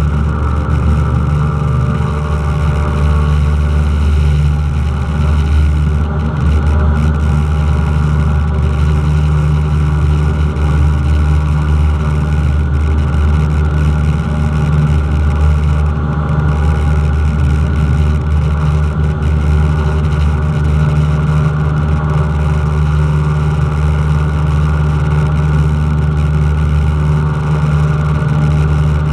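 Cessna 172's piston engine and propeller running steadily, a constant low drone with no change in power.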